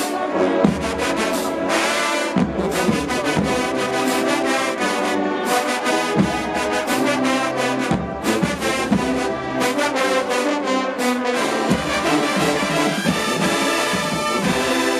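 HBCU show-style marching band playing, with a full brass section over drumline hits.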